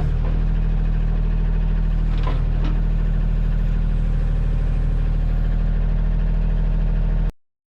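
Kioti tractor's diesel engine running steadily, with the backhoe working; it cuts off suddenly near the end.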